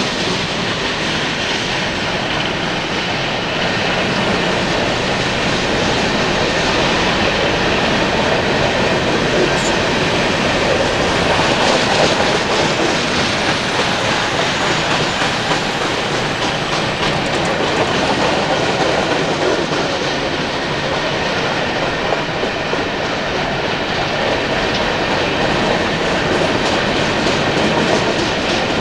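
Union Pacific coal train's loaded-style hopper cars rolling steadily past, wheels clicking over the rails in a continuous rumble, with a faint high wheel squeal about halfway through.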